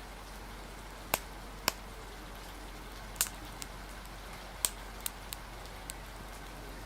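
Wood fire crackling, about eight sharp irregular pops, over a steady hiss of rain.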